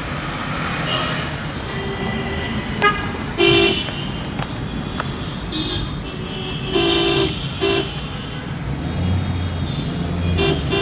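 Vehicle horns honking in city traffic over a steady road rumble: about five short honks, one held a little longer in the middle.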